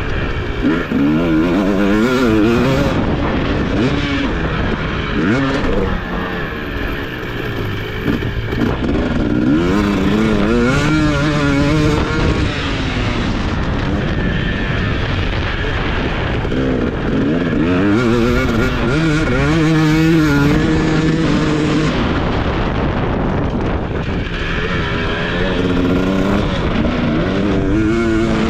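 TC250 motocross bike engine being ridden hard: revving up and falling off again and again, its pitch climbing through the gears several times.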